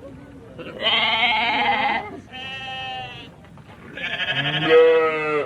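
Sheep bleating: three wavering bleats, the middle one quieter.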